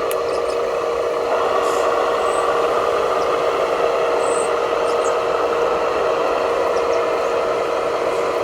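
Small electric motor and gearbox of a radio-controlled construction model running steadily, with a constant whine over a gritty mechanical hum.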